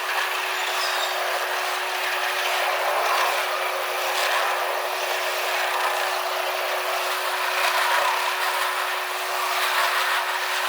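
Freight train cars rolling past on the rails: a steady rushing wheel noise with a faint steady tone underneath and occasional light clicks.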